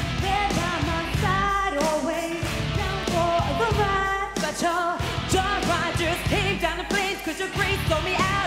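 Live pop-rock song performance: sung vocals over a band backing with a steady drum beat.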